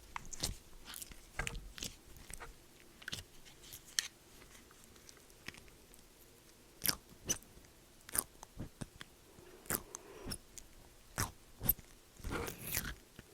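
Foam-bead slime being squeezed and pressed by hand, giving scattered, irregular crunchy crackles and clicks, with a short flurry near the end.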